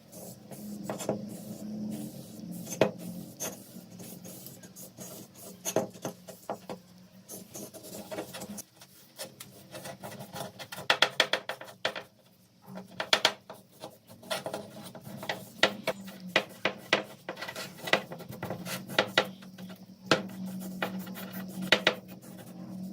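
Metal parts being handled, with sharp clinks, clicks and scraping throughout and quicker runs of clatter in the middle.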